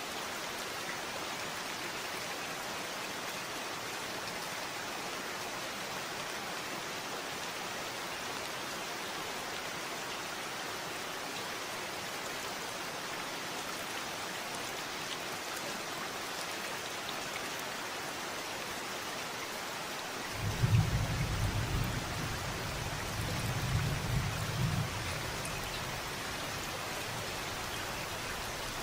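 Steady rain falling in an even hiss. About two-thirds of the way through, a low rumble of thunder rolls in and lasts about four seconds.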